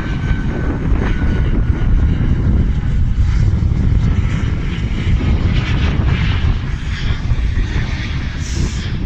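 Jet airliner's engines running loud and steady: a deep rumble with a hiss above it.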